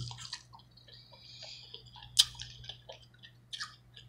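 Close-miked wet chewing and lip-smacking of a person eating king crab meat: scattered short smacks and clicks, the sharpest about two seconds in, over a faint steady hum.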